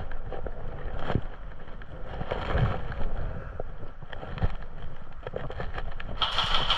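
Low, steady wind rumble on the microphone, with scattered sharp clicks and knocks through it.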